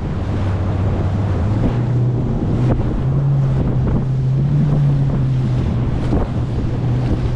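A 90 hp Evinrude outboard motor on a small inflatable boat running under way, its pitch stepping up between one and three seconds in as the revs rise and then holding steady. Wind buffets the microphone throughout.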